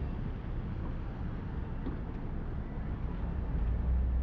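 Steady low rumble of city street traffic, with a faint even hiss above it.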